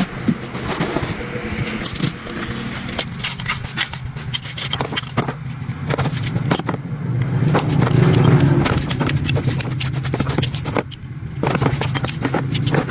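Metal scraping and clicking from hand work on metal parts, over a steady low machine hum that swells about eight seconds in.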